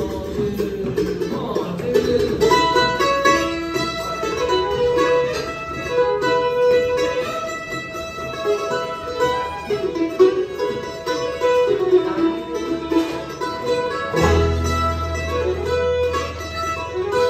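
Bluegrass string band playing an instrumental passage: quick picked melody on plucked strings over guitar. A deep bass note comes in near the end.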